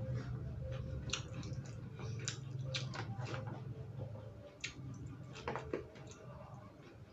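Close-up eating sounds: irregular crunches and clicks of food being bitten and chewed.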